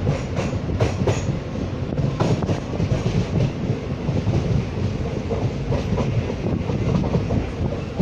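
Passenger train running at speed, heard from an open carriage doorway: a steady rumble of wheels on rails, with irregular clattering clicks, most frequent in the first couple of seconds.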